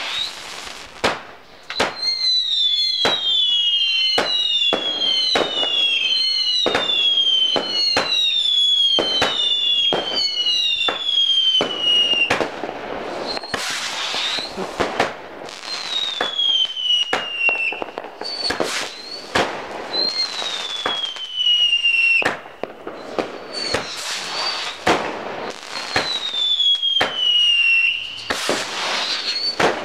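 A multi-shot firework barrage firing: a string of sharp bangs mixed with whistles that each fall in pitch, about one every three-quarters of a second for the first ten seconds, then more spaced out, with crackling between the shots.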